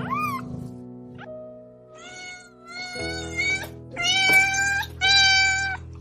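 Domestic cat meowing over and over, about six separate meows, with background music playing steadily underneath.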